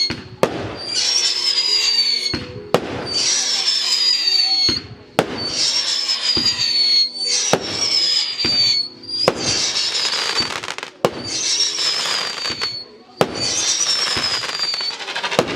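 Fireworks going off in quick succession: about seven sharp bangs roughly two seconds apart, each followed by a high whistle that slides down in pitch and a crackling hiss.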